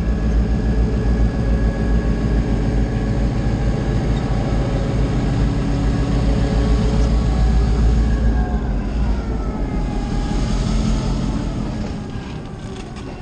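A steady engine drone with a strong low rumble and several held tones. About nine seconds in, the tones slide down and back up as the sound eases a little.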